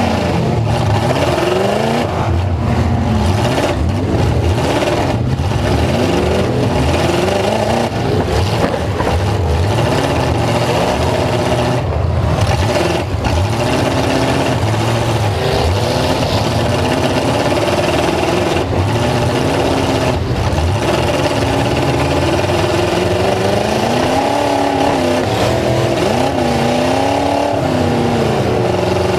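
Full-size truck engine revving hard, its pitch rising and falling again and again.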